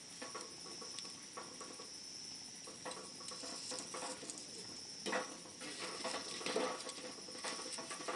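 Wood fire crackling, with irregular snaps and pops and a louder flurry of crackles about five seconds in. A steady high-pitched insect trill, like crickets, runs behind it.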